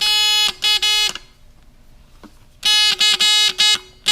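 Homemade toy's electric buzzer sounding in on-off bursts, a steady pitched buzz: one longer burst then two short ones, a pause of over a second, then a quick run of about six short beeps. It is working again now that the toy's battery has been replaced.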